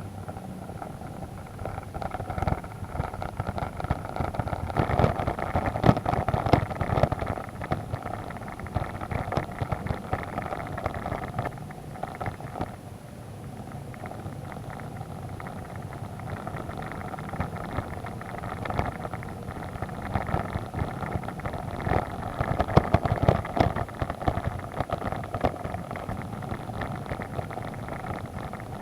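Vehicle engine running steadily while driving over a slippery mud road, with frequent knocks and rattles from the ruts and bumps, heaviest a few seconds in and again near the end.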